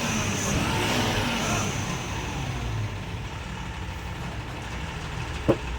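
Engine running steadily with a low, pulsing rumble, slightly quieter after about three seconds. A single brief sharp sound comes near the end.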